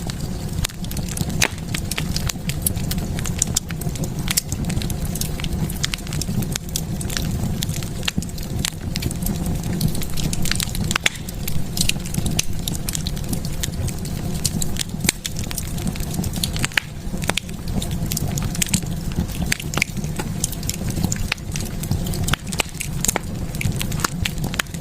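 Fire burning in a fireplace, crackling with frequent irregular pops over a steady low rumble.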